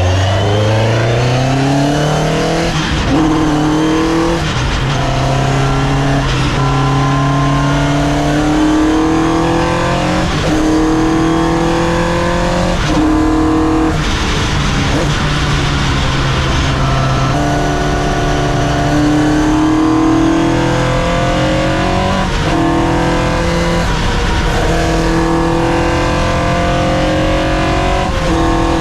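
Race-prepared Peugeot 205 with a Vauxhall C20XE 2.0-litre 16-valve four-cylinder engine accelerating hard on track. The engine note climbs and drops sharply at each upshift, over and over, with the revs held short to a 5,500 rpm limit.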